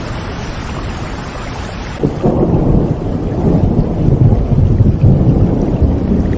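Steady rain falling, with a deep rumble of thunder that starts suddenly about two seconds in and keeps rolling.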